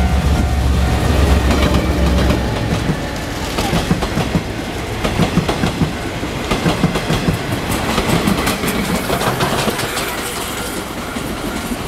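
Taiwan Railways R40 diesel locomotive's engine running loud as it passes, fading after about two seconds. Then the passenger coaches' wheels click over the rail joints in a quick, uneven rhythm, with the steam locomotive at the tail towed unpowered. A level-crossing warning bell rings faintly throughout.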